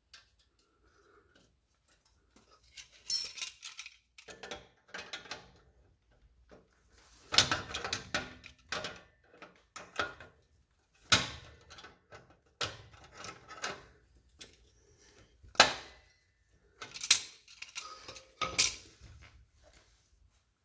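Irregular metallic clinks and clanks of tools and metal parts being handled, several sharp strikes among shorter rattles.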